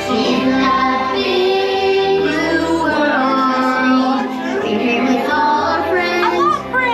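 Music with child and female voices singing a melody over backing accompaniment, from the ride's soundtrack.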